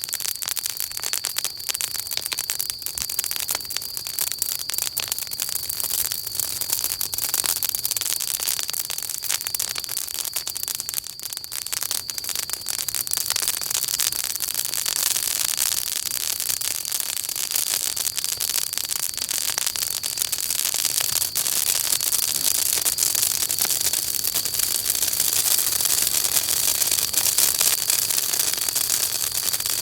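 Wood campfire burning, with dense continuous crackling and popping over a steady hiss that grows a little louder past the middle.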